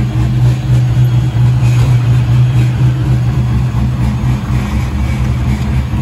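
6.0-litre truck V8, swapped into an Infiniti G35 coupe, idling steadily.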